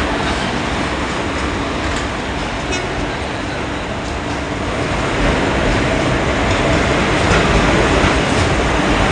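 Passenger train hauled by an electric locomotive rolling past on the next track: a steady rumble and rattle of wheels and coaches on the rails, getting a little louder partway through.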